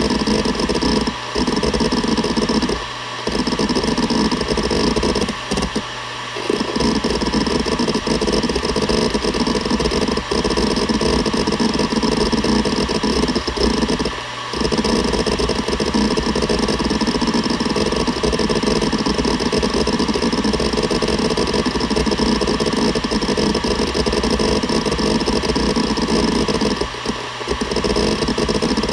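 Seagate Barracuda ES.2 ST31000340NS 7200 rpm hard drive working: a continuous rapid seeking chatter from the head actuator over the steady hum and whine of the spinning platters. The seeking stops for brief moments about five times, leaving only the spindle hum.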